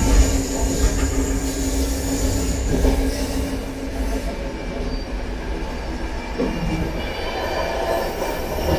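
Turkish sleeper train running, heard from inside the carriage: a steady low rumble of wheels on the track with a faint steady whine above it.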